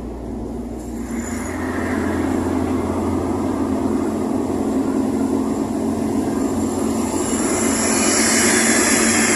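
A 1987 VW Voyage's AP 1.6 four-cylinder engine running steadily; it grows louder about a second in and again near the end.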